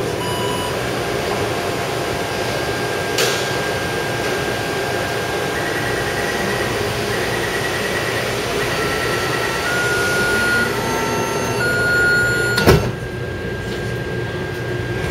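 Taipei Metro C371 train running, heard from inside the car: a steady ride rumble with a thin electric whine that steps between several pitches, a click a few seconds in and a sharp knock near the end, after which the noise drops.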